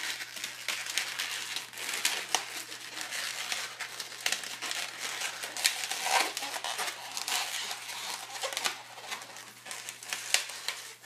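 Inflated twisting balloon being worked by hand, its latex rubbing and crinkling continuously with quick crackles and a few short squeaks as a bubble is pushed through and twisted.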